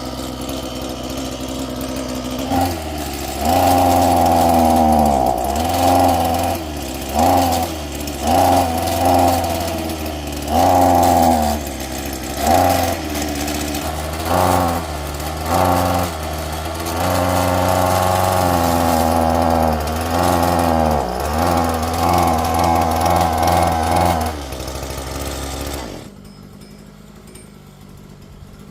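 An engine-driven machine running, its pitch dipping and recovering again and again as it takes load, with loud surges; it shuts off near the end.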